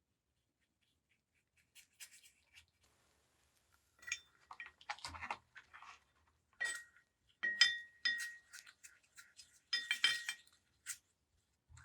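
Small metal parts clinking and knocking against each other in a series of irregular strikes, several with a short bright ring.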